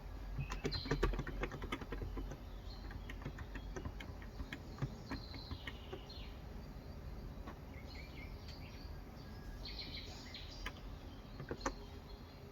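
Typing on a Cox Endeavour electro-capacitive (Topre-style) keyboard with light 35 g keys: a quick run of keystrokes in the first two seconds, then scattered single keys, and one last key press near the end. Birds chirp in the background throughout.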